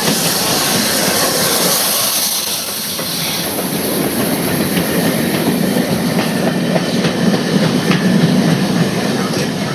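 Rebuilt Merchant Navy class 4-6-2 steam locomotive 35028 Clan Line running through, with no train behind it: a hiss of steam for the first few seconds, then its wheels clicking over the rail joints over a low rumble.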